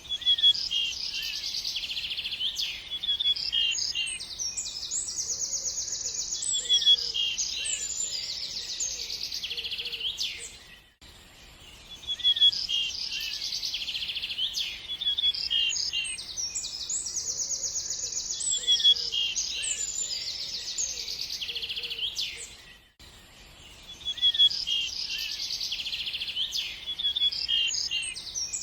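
Songbirds singing, with fast high trills and chirps; the same passage of song repeats about every twelve seconds, each time after a brief lull.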